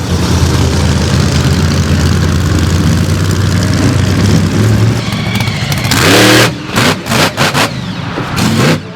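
Monster truck engine running loud and steady, then revving up with a rising pitch about six seconds in and blipping on and off several times near the end.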